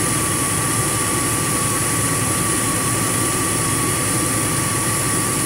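2002 Jeep Grand Cherokee WJ's engine running at idle with the AC compressor engaged, heard as a steady whooshing engine-bay noise with a faint steady whine. The AC system has just been recharged with refrigerant.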